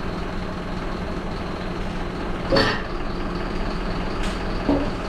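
Mercedes Atego hooklift truck running with a steady low engine hum. There is a brief louder sound about two and a half seconds in and fainter knocks near the end.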